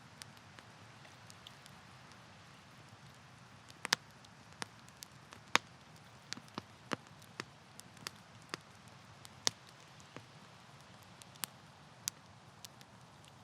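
Wood campfire crackling, with irregular sharp pops, the loudest about four, five and a half and nine and a half seconds in, over a faint steady low rush.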